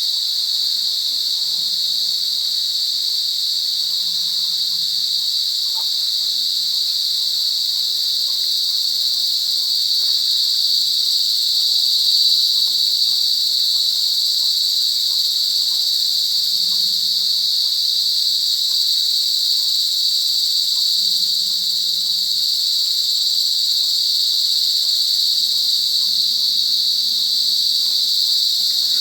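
Chorus of cicadas buzzing loudly and steadily in a high pitch, without a break.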